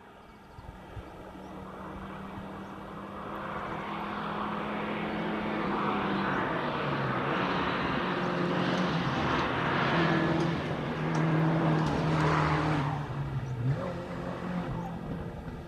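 Distant rally car engine working hard up a gorge road, fading in over the first few seconds, its note stepping up and down several times as it changes gear, echoing off the rock faces.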